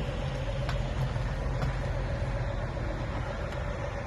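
Heavy diesel truck engine idling with a steady low hum, and two light clicks about a second apart.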